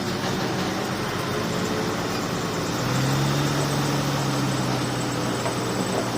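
Diesel engine of heavy earthmoving machinery running steadily; a deeper engine note comes up about three seconds in and holds.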